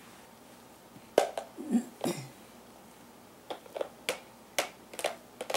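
A baby making a string of sharp mouth clicks at irregular intervals, starting about a second in and coming closer together after three and a half seconds, with a brief low vocal sound between the first clicks.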